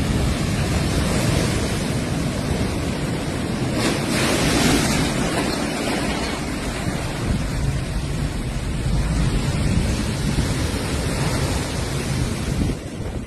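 Heavy surf from rough seas pounding the shore, with wind rumbling on the microphone; the loudest surge comes about four seconds in.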